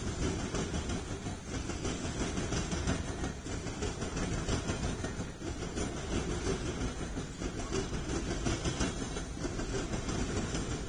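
Freight train of loaded flatcars rolling past: a steady rumble and rattle of wheels on the rails, swelling and dipping about every two seconds.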